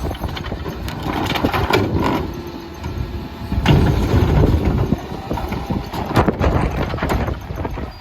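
Garbage truck working through a cart line with irregular clattering knocks, under heavy wind buffeting the microphone.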